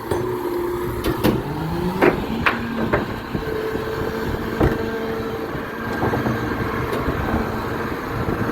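Garbage truck working: its engine runs steadily and rises in pitch about a second in, with several sharp knocks and bangs over the first five seconds.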